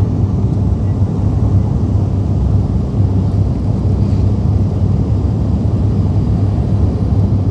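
Steady low drone of an ATR 72 turboprop in flight: its engines and propellers make a constant deep hum with no change in pitch.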